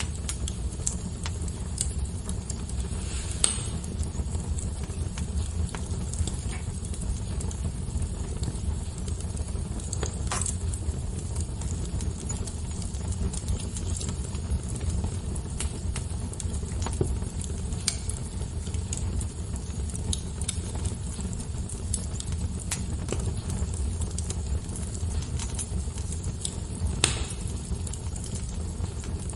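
Wood fire crackling, with scattered sharp pops over a steady low rumble; two louder pops come about three and a half seconds in and near the end.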